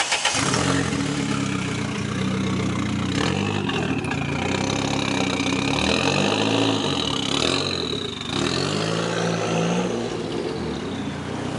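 A car engine just started, running and revved several times, with a high whine rising and falling through the middle.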